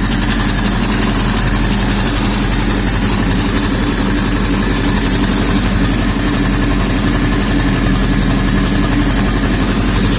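Subaru EJ20G turbocharged flat-four engine idling steadily on a test stand.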